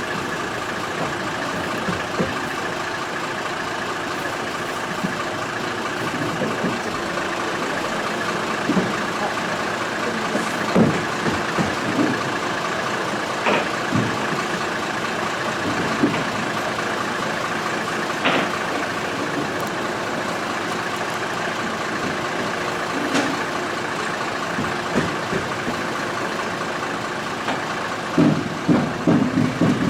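Truck engine idling steadily, with scattered knocks and clunks and a quick run of them near the end.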